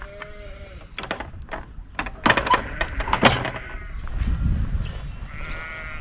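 Sheep bleating in a field, a call near the start and another near the end, with loud rustling and knocks in between.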